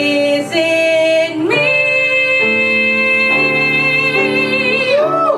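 Solo singer performing a song over instrumental accompaniment, holding one long note from about a second and a half in until near the end.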